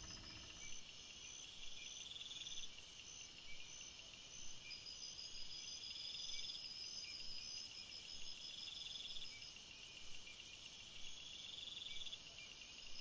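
A chorus of chirping insects, several trilling at once in high-pitched pulsed trains. One trill swells in short phrases every few seconds, and a shrill high-pitched layer grows louder in the middle and cuts off about eleven seconds in.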